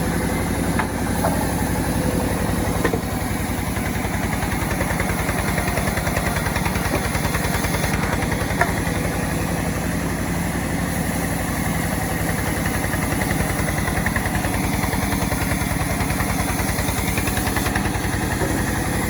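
Engine of a self-assembled chainsaw running at a steady speed, with an even rapid pulse and no rise or fall in revs.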